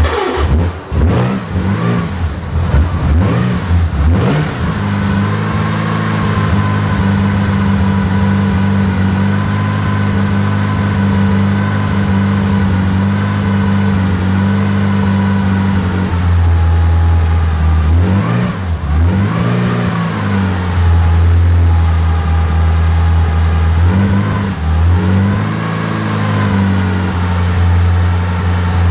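Bugatti Type 35 straight-eight engine just after a cold start: it runs unevenly for the first few seconds, then settles into a steady fast idle. Its revs rise and fall with throttle blips near the middle and again near the end.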